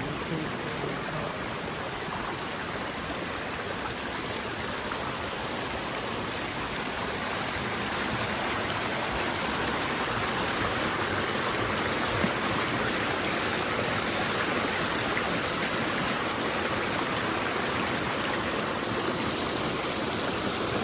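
Stream running: a steady rush of flowing water that grows a little louder about eight seconds in.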